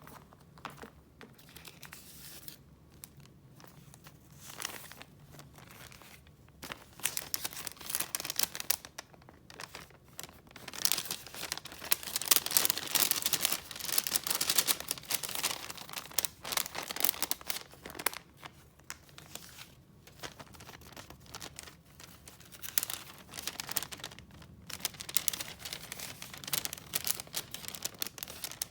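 Paper and wrapping being handled and flipped through: irregular crinkling and rustling, light at first, then louder and denser from about seven seconds in, easing and picking up again near the end.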